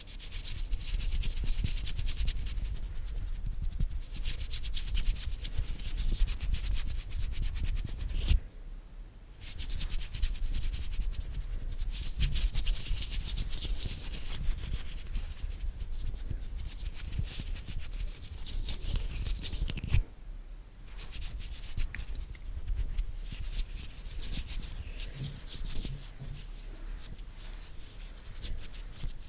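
Bare hands rubbing and brushing together close to the microphone, a dry, crackly skin-on-skin rub, broken by two short pauses, the first about a third of the way in, the second about two thirds in.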